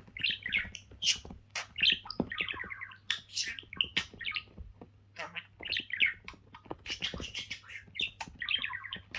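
A small pet bird chirping and chattering in quick, warbled runs of notes, mixed with many sharp clicks.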